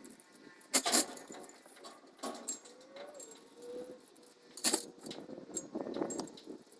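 Metal clanking and rattling: a few sharp metallic clanks with ringing after them, lighter clatter between, and a short squeak about three seconds in.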